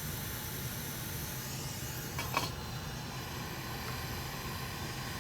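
Steady fan hiss with a low hum, and a brief faint knock a little over two seconds in.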